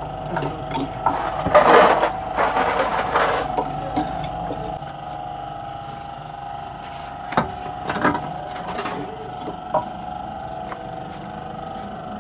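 Mechanic's hand tools working on car steering parts: a stretch of rattling and scraping metal, then a few separate sharp clinks.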